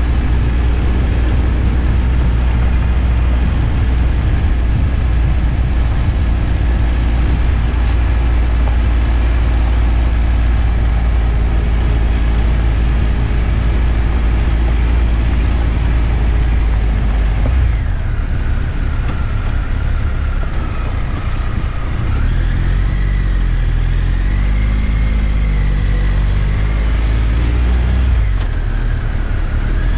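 Triumph Tiger 1200's three-cylinder engine running under way on the bike. A little past halfway the engine note changes, and near the end it rises and falls several times as the throttle opens and closes.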